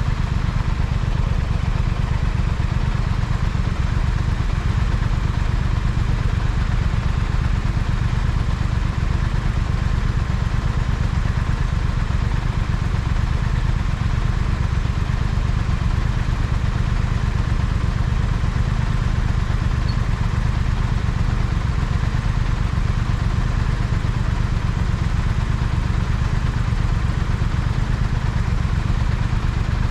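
Triumph Speed Twin parallel-twin motorcycle engine running steadily, with no revving or gear changes heard.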